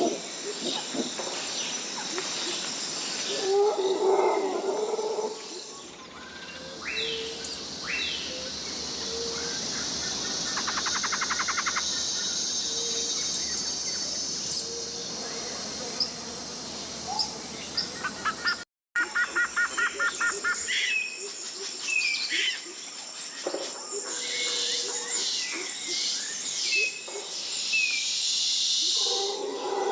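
Tropical rainforest ambience: a steady high chorus of insects with many short bird chirps and whistles over it. A lower animal call sounds around four seconds in and again near the end, and the ambience cuts out completely for a moment about two-thirds of the way through.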